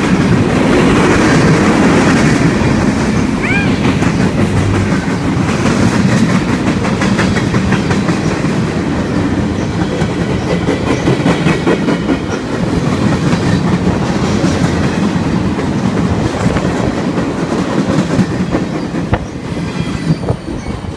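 Freight cars of a mixed freight train rolling past at close range: a steady steel-wheel rumble with rapid clickety-clack over the rail joints. The sound falls away near the end as the last car goes by.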